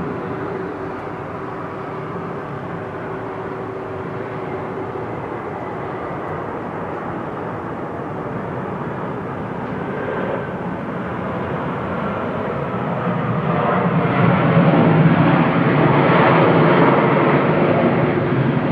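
Boeing 737 jet engines running as the airliner lands, a steady roar that swells and is loudest near the end.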